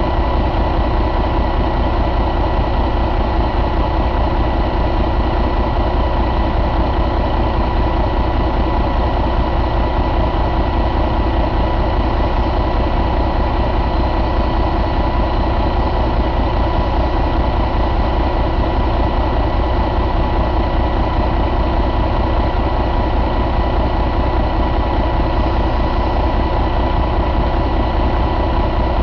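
Detroit DD15 inline-six diesel engine idling steadily, with a thin, steady whine running over the idle.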